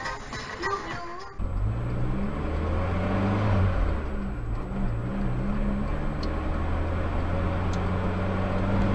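A vehicle's engine running with a low, steady drone whose pitch rises and falls for a couple of seconds and then holds level. Before it, music with singing cuts off suddenly about a second in.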